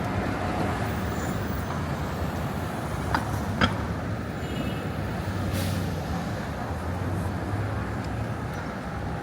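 City street traffic: steady vehicle and engine noise with a low hum, two short clicks about three seconds in, and a brief hiss a little past halfway.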